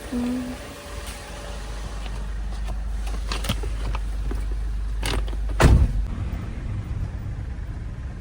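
A motor vehicle's engine running with a steady low rumble, with a few sharp knocks, the loudest just before six seconds in.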